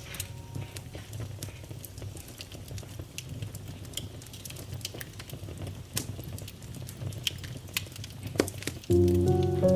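Wood fire crackling, with irregular sharp pops over a low steady rumble. Piano chords come in near the end.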